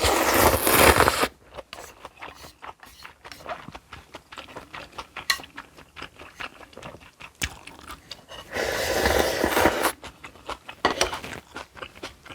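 Close-miked eating sounds: two loud, noisy eating noises about a second long, one at the start and one around nine seconds in, with quick chewing clicks and crunches between them.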